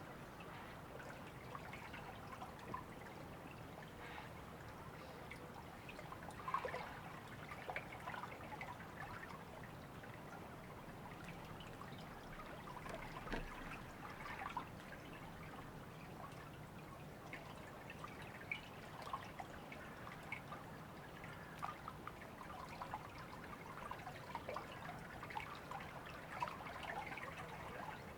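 River water trickling and babbling: a steady soft rush with many small splashes and drips.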